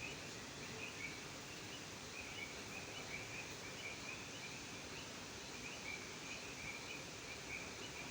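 Frogs calling: short high chirps repeating in clusters over a steady background hiss.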